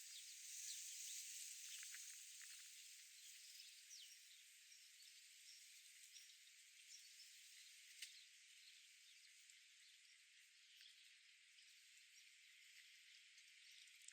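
Near silence: faint, steady high-pitched outdoor hiss with a few faint chirps in the first few seconds and one soft click about eight seconds in.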